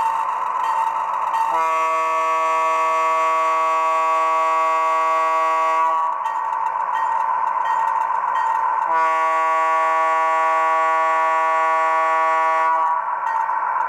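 Sound decoder of an HO-scale Athearn Genesis gas turbine locomotive playing a steady high turbine whine, with two long horn blasts of about four seconds each, each a chord of several notes.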